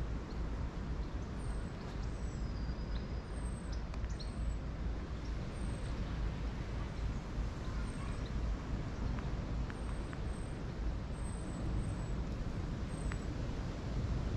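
Woodland ambience: a small bird repeating short, thin, very high calls that fall in pitch, over a steady low rumble of noise.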